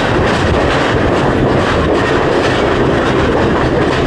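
Passenger train running along the track, heard from its open doorway: a steady, loud rumble of wheels on the rails with scattered clicks.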